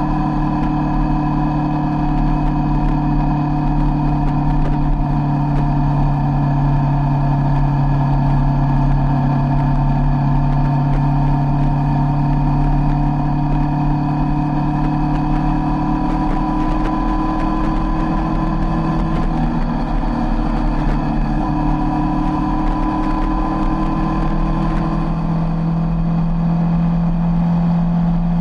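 Sport motorcycle's engine running steadily while cruising on the highway, its pitch rising a little near the end, over a low rumble of wind on the bike-mounted microphone.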